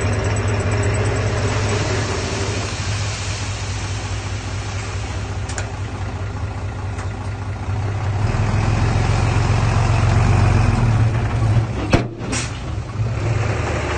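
Diesel engine of heavy earthmoving machinery running steadily, getting louder as it works under load about two thirds of the way through. It is followed by a couple of sharp knocks near the end.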